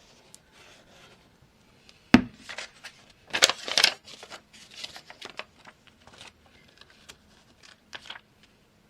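Paper and card being handled: short rustles and slides, with one sharp knock about two seconds in and a louder burst of rustling a second later.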